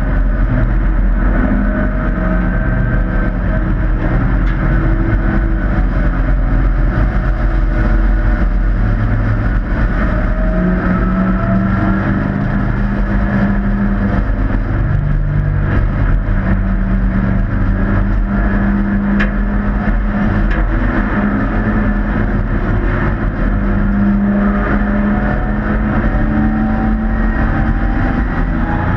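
Several hobby-class race trucks running at speed in a pack, a steady engine din with individual engine notes sliding up and down as they accelerate and pass.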